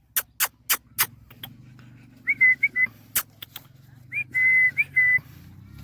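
A person whistling short notes at a steady pitch to call a dog, in two runs about two seconds and four seconds in. Sharp clicks come between, about four quick ones in the first second and another near three seconds.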